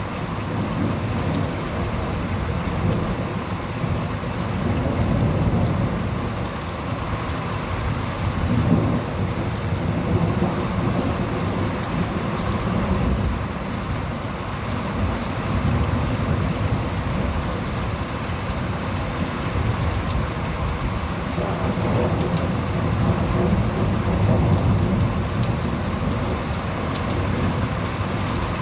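Thunderstorm: steady heavy rain falling on surfaces, with low thunder rumbling that swells and fades several times.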